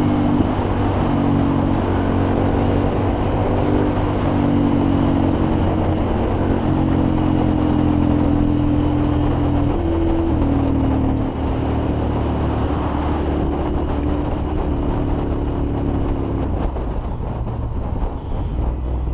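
Ducati Monster's L-twin engine with a Termignoni exhaust running under way. The engine note holds steady and shifts in steps every few seconds with throttle, then eases off near the end.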